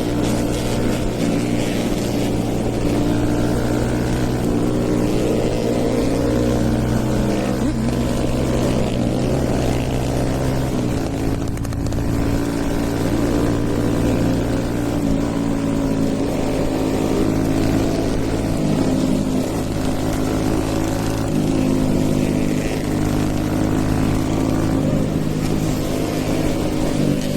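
Hero Eco 150's stage 2 tuned single-cylinder engine running under way, its pitch rising and falling with the throttle and stepping at a couple of points as gears change.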